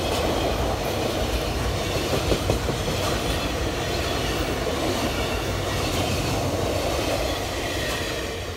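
Open-top freight wagons rolling past close by: a steady rumble of steel wheels on the rails, with a couple of louder knocks about two seconds in. It gets quieter near the end.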